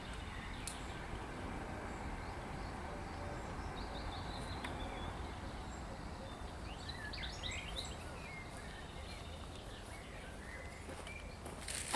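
A songbird sings two short phrases of quick high notes, about four seconds in and again about seven seconds in, over a steady low background noise.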